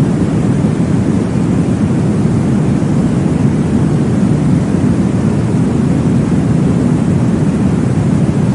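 Steady, deep whooshing noise with no breaks: a womb-sound track imitating the whoosh of blood flow heard in the uterus, played to settle a baby to sleep.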